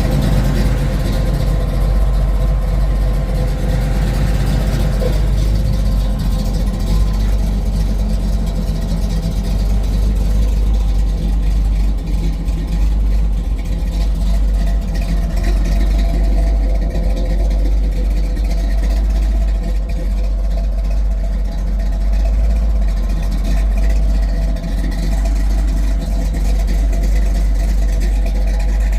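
1968 Pontiac Firebird's engine running steadily, with a strong low rumble and no clear rise or fall in revs.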